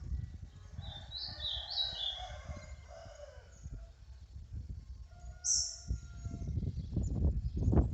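Wild birds calling, with a run of short high stepped notes about a second in and a high whistle past the middle. Under them a rooster crows in the distance. A low rumble runs throughout and grows loudest near the end.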